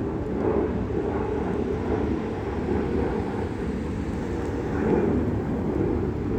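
Airbus A321-211's CFM56-5B jet engines at climb power, a steady, rumbling jet noise that swells and fades slightly.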